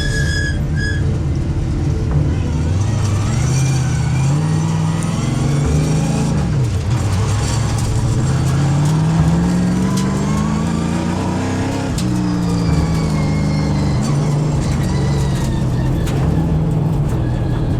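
Late Model race car's V8 engine running on track, its pitch climbing and dropping twice, with a sharp drop about twelve seconds in, then holding steadier near the end.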